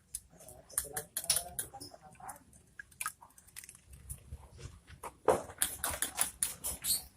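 Common iora bathing, splashing and fluttering its wings in the water: a scatter of quick splashes and clicks, with a denser flurry about five seconds in.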